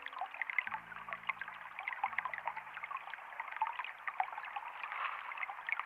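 Running water trickling and babbling, with many small splashes and drips over a steady rush. Soft, low sustained notes of background music sound beneath it for the first half.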